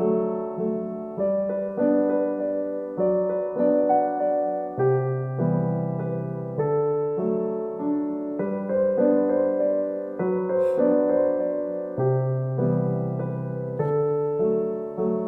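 Background piano music: a gentle, steady run of struck notes and chords, each one fading after it is played.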